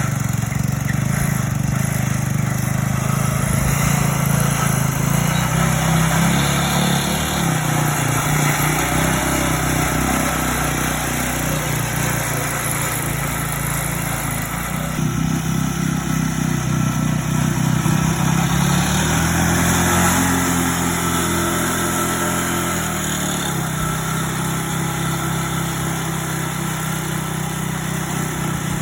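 Tractor engine running hard, its pitch rising and falling several times as it is revved and eased off.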